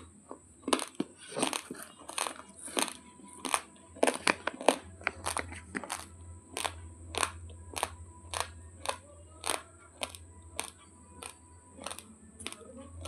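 Raw Kohinoor Super basmati rice grains crunched between the teeth while chewing, with sharp, irregular crunches about two a second.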